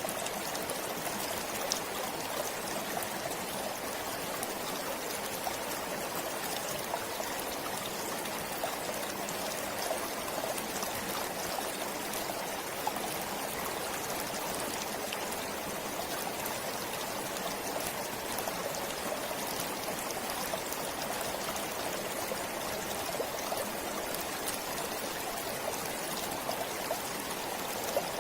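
Forest stream flowing steadily, water running and trickling over stones with an even rush and faint scattered splashes.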